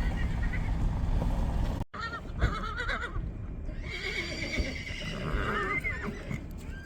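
Low vehicle rumble that cuts off abruptly about two seconds in, then horses whinnying: a short wavering call, then a longer one.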